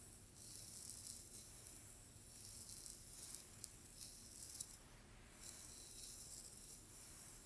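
Slow strokes through hair, each pass a soft hiss lasting one to two seconds, about three passes with a few faint clicks.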